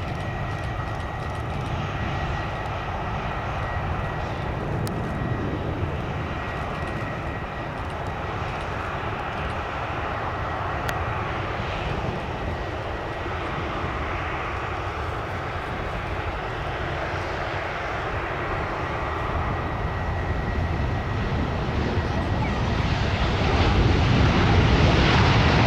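Jet airliner engines running at an airport, a steady rush with a thin whine in the first half. The sound grows louder over the last few seconds.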